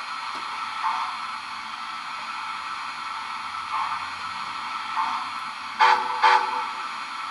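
Sound system of an MTH HO-scale Erie Triplex 2-8-8-8-2 steam locomotive model: slow steam chuffs about once a second over a steady hiss, then two short whistle toots about six seconds in, the two-short-blast signal for moving off.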